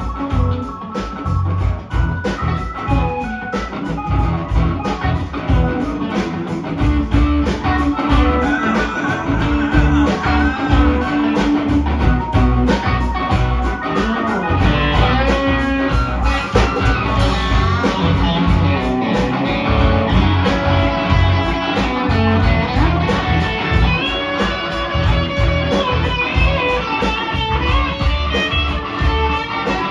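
Instrumental break of a rock song: electric guitar playing lead lines over bass and drums with a steady beat.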